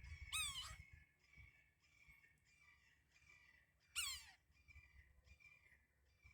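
Woodpecker calling: two loud harsh calls that fall in pitch, about three and a half seconds apart, with softer short notes repeating between them.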